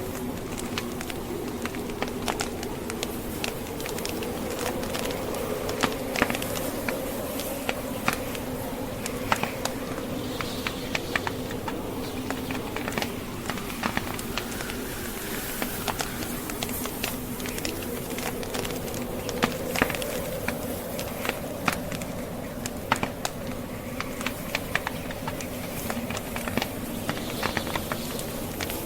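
Wood fire crackling, with frequent sharp, irregular pops and snaps, over the steady low drone of blizzard wind blowing.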